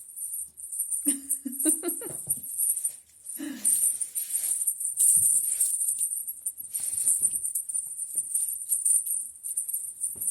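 Little bells on a cat toy jingling steadily as the cats bat it about. Twice, about a second in and again near 3.5 seconds, there is a short cat call.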